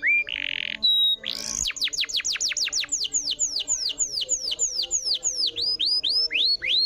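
Canary singing. After a few short notes and a brief harsh buzz, a fast rapid-fire run of high whistles begins about a second in, each one sliding down in pitch at roughly five or six a second, with a few rising notes near the end.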